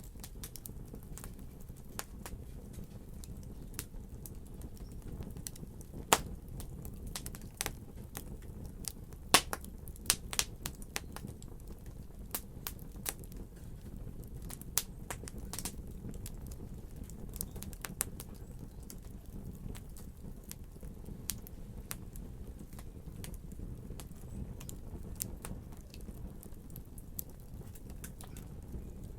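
Wood fire crackling steadily over a low rumble, with irregular sharp pops and snaps; the loudest pops come about 6 and 9 seconds in.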